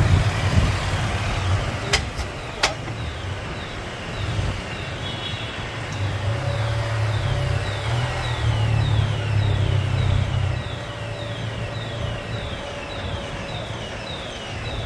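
Street traffic: vehicle engines running with a low rumble that swells and eases. Two sharp clicks come about two seconds in, and in the second half a high falling chirp repeats about twice a second.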